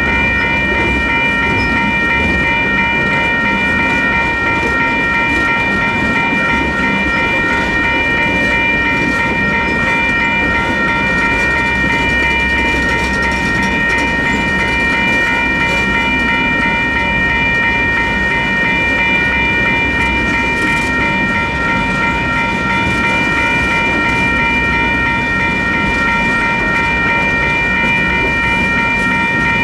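Freight cars of a slow Union Pacific manifest train rolling past a grade crossing, with a low rumble and wheel clatter. Over them the crossing's WCH electronic bells ring steadily as a high, continuous chime.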